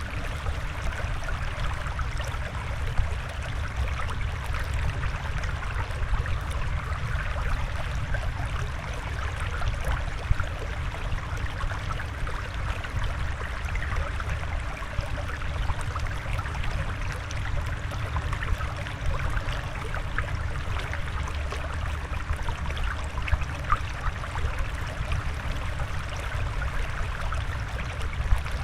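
Steady flowing, trickling water, with a constant low rush and small bubbling ticks.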